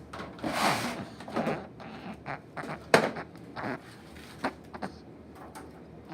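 Furnace humidifier being taken apart by hand: a scraping slide, then a string of plastic clicks and knocks, the sharpest about three seconds in.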